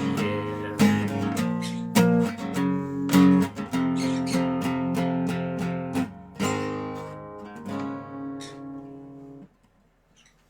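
Dobro (resonator guitar) playing an instrumental ending: plucked notes and strummed chords, then a last chord that rings and fades before it stops suddenly about nine and a half seconds in.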